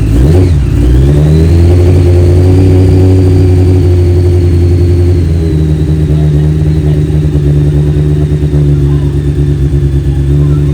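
1997 Honda CBR900RR Fireblade's inline-four engine running after three years unused. It revs up in the first second or so, then holds steady above idle, with a small change in pitch about five seconds in. Its tick-over might be set too low.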